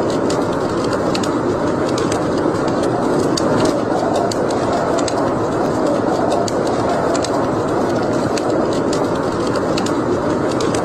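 Wood fire burning in a fireplace: a steady rushing noise with sharp crackles scattered irregularly throughout.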